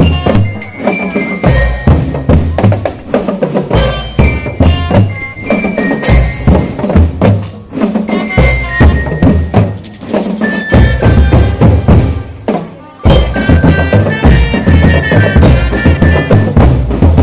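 Marching drum band playing: a steady beat of drums with a bright mallet-percussion melody, like a glockenspiel, ringing over it. It drops out briefly about three-quarters of the way through, then comes back in.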